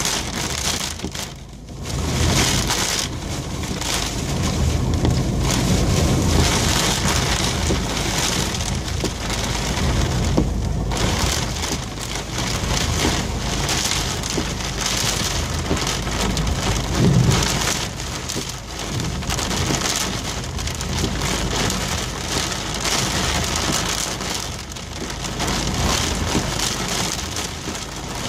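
Heavy thunderstorm rain pouring steadily, with a low rumble underneath.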